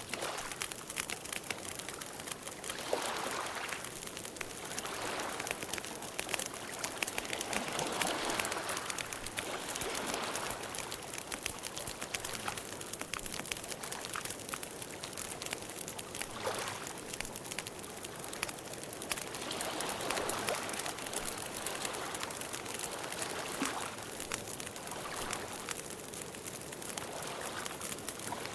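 Campfire burning, a dense run of small crackles and pops over a steady hiss, swelling softly every few seconds.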